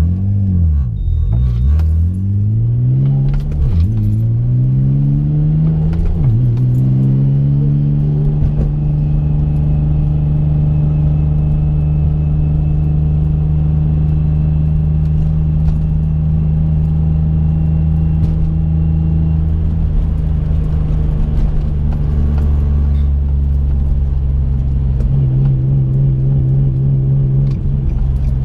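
Twin-turbo 2005 Infiniti G35 coupe's 3.5-litre V6 under way. The revs climb and drop back sharply twice in the first six seconds as it upshifts through its manual gearbox, then the engine holds a steady drone at cruising revs, and the pitch sags near the end as it slows.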